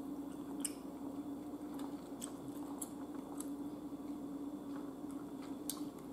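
Close-miked chewing of a mouthful of ribeye steak: soft wet mouth clicks and smacks scattered irregularly, over a steady low hum.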